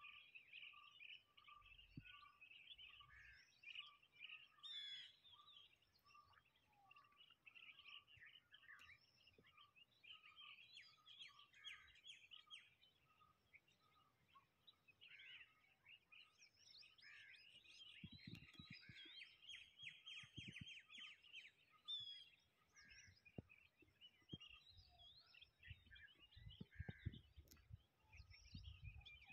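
Faint chorus of birds chirping, with one bird repeating a single lower note steadily about every half second until roughly two thirds of the way through. Scattered low rumbles, mostly in the last third.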